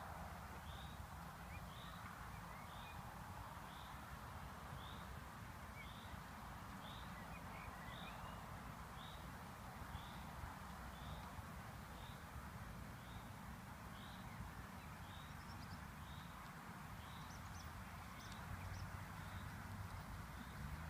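A bird repeats a short high call about once a second over steady outdoor background noise, with a few fainter, higher chirps from other birds in the later part.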